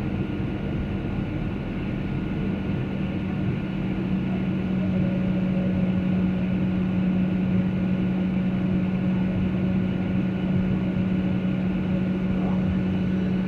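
Airliner cabin noise in flight: a steady drone of engines and airflow with a strong low hum and a thin, higher steady whine, growing slightly louder over the first few seconds.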